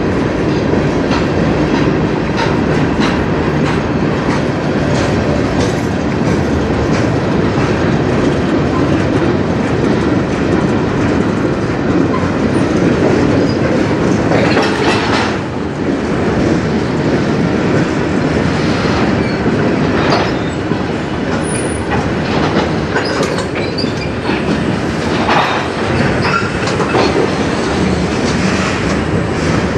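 Freight cars of a passing CN manifest train rolling by: a steady rumble of steel wheels on rail with clickety-clack over the rail joints. A few sharp knocks stand out in the middle and near the end.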